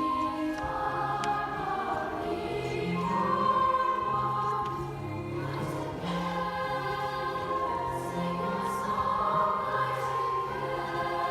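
Youth choir singing in several parts, holding sustained chords that shift every second or two, with the low voices stepping between notes beneath a high line.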